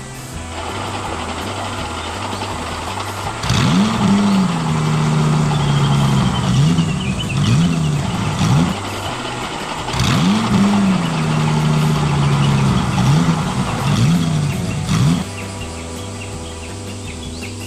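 An engine revving up, holding and dipping a few times, then dropping away. The same roughly five-second passage plays twice, over background music with a steady repeating bassline.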